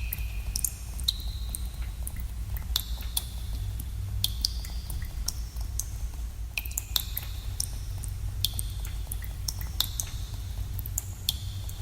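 Water drops falling into pools in a cave: irregular plinks, several every second, each with a short ringing pitched tail, over a steady low rumble.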